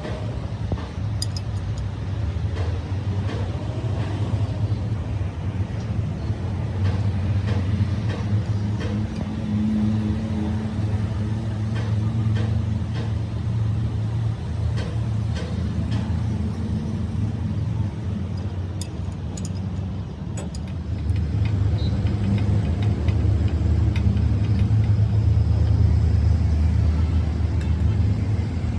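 Steady low engine rumble with scattered light clicks and taps, growing louder about three-quarters of the way through.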